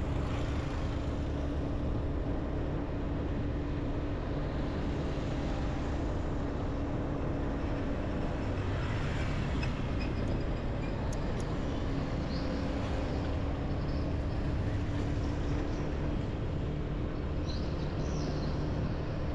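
Motorbike engine running at a steady speed, a constant low drone, with street traffic noise around it. A few faint brief high sounds come near the middle and near the end.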